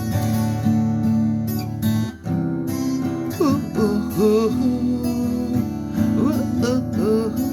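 Song intro: acoustic guitar strumming chords. About three seconds in, a melody line with bending, sliding notes joins over it.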